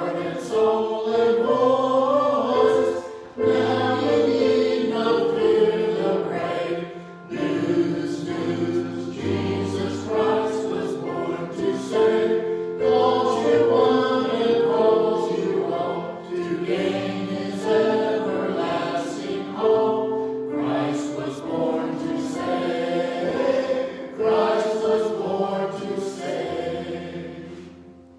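Choir singing a hymn in harmony, in several phrases with short breaks between them, the final chord fading away near the end.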